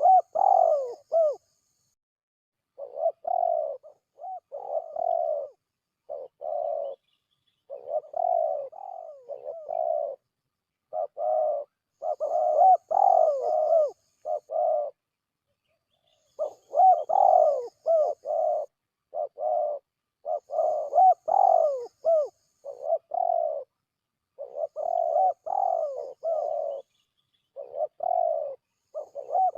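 Recorded spotted dove calls used as a hunting lure: repeated cooing phrases, each a second or two long, separated by short pauses.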